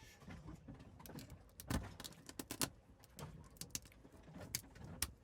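Irregular sharp clicks and cracks of a slipper lobster's hard shell being cut and pried apart as it is cleaned, with a few louder cracks about two seconds in.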